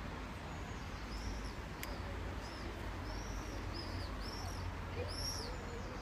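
A small bird chirping repeatedly: short, high, arched notes, about one or two a second, beginning about a second in, over a steady low rumble.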